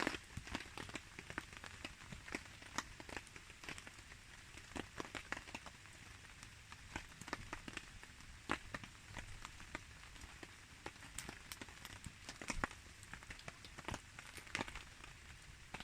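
Rain falling alongside a crackling campfire: a steady hiss of rain with irregular sharp clicks and pops of drips and burning wood.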